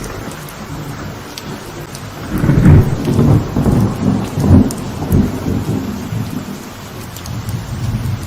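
Steady light rain falling on a veranda. About two seconds in, a deep roll of thunder builds, peaks twice and dies away past the middle.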